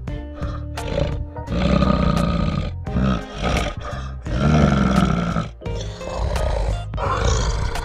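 A large animal calling three times, each a loud, rough call of about a second, over background music.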